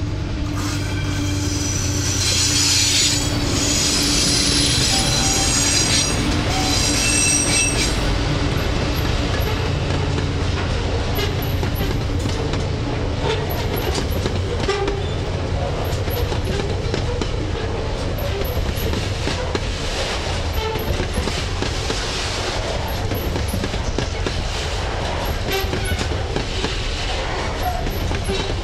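TasRail TR class diesel locomotives passing close by, with the horn sounding over the engine's drone for the first several seconds. Container wagons then roll past: a steady rumble with rhythmic clicking of wheels over rail joints and occasional light wheel squeal.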